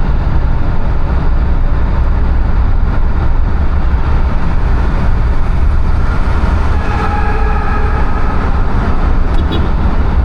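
Steady loud rumble of a car at road speed heard from inside the cabin: tyre and engine drone with no change in pace.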